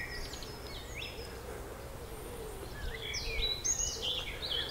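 Wild songbirds singing: short whistled phrases and chirps, with the chorus getting busier about three seconds in.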